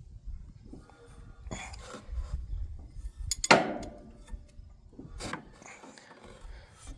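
Handling and tool noise while working on a tractor engine: rubbing and shuffling with three sharp metallic knocks, the loudest about halfway through with a brief ring.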